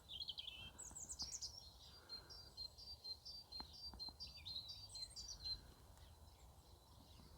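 Small songbirds calling faintly: a steady run of short, high repeated notes, about three or four a second, with louder chirping phrases at the start, about a second in, and around five seconds in.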